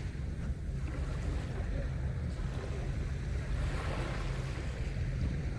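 Sea waves washing onto a sandy beach, over a steady low rumble of wind on the microphone; a wave swells up and breaks about four seconds in.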